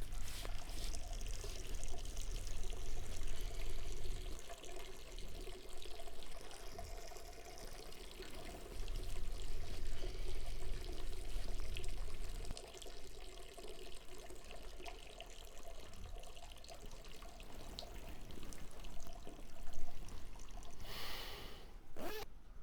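A man urinating: a continuous stream of liquid pouring and splashing, heavier for the first twelve seconds or so, then softer.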